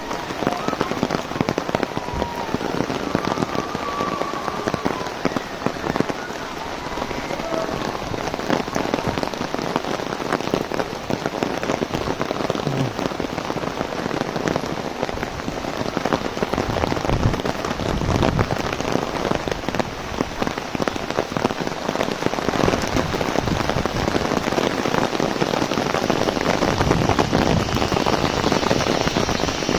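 Heavy rain falling on an umbrella overhead: a dense, steady rush of drop hits that grows a little louder in the later part.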